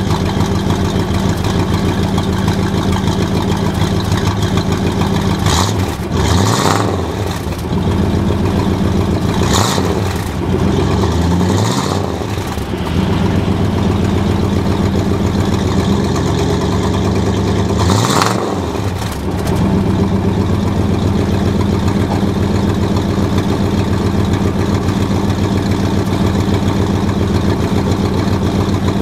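1974 Dodge truck engine idling while it warms up from a cold start, heard at the exhaust. The throttle is blipped four times, each a short rev up and back down to idle.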